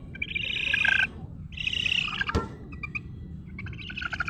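Small bird chirping in bursts of rapid, high chatter, with a sharp click about two and a half seconds in and fainter chirps after it.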